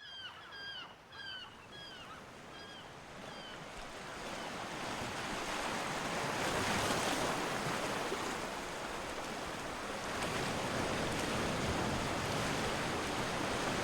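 Sea surf washing in, a steady rushing that swells after the first few seconds, with a bird calling about eight times in quick succession at the start.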